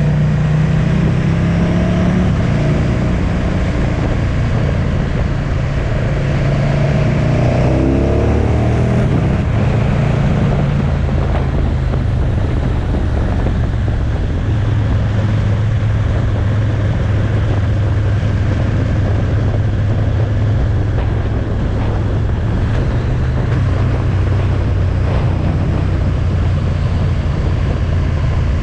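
Motorcycle engine running on the move, with heavy wind noise on the microphone. The engine note rises and falls over roughly the first ten seconds, then holds fairly steady.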